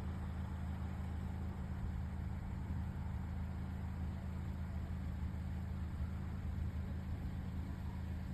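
Car engine idling: a steady low hum with a faint noisy wash over it, even throughout.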